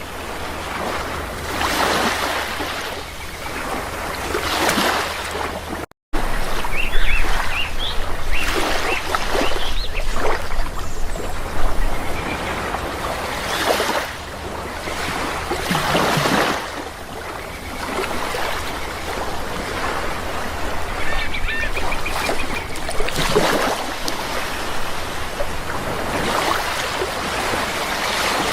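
Sea waves washing in repeated surges, with birds calling over the surf, most between about seven and twelve seconds in and again past twenty seconds. The sound cuts out for an instant about six seconds in.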